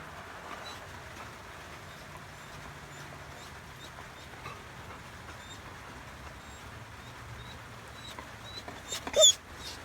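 A dog giving one short, loud, high-pitched whimper about nine seconds in, its agitated reaction to noises from next door. Before it there is only a faint steady hum with faint short high chirps.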